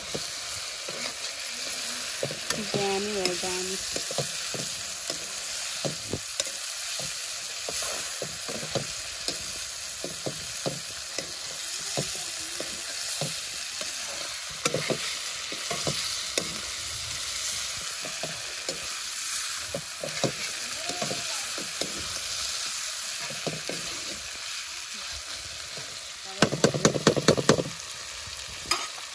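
Meat frying and sizzling in oil in a black iron kadai, stirred with a metal spatula that scrapes and clicks against the pan. Near the end comes a quick run of about ten sharp taps.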